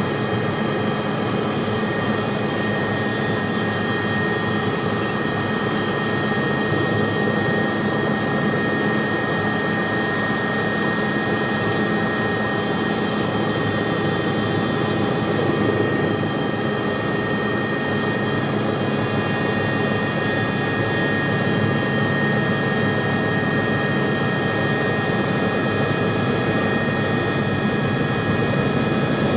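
Helicopter running steadily: an even engine and rotor noise with a steady high turbine whine over it.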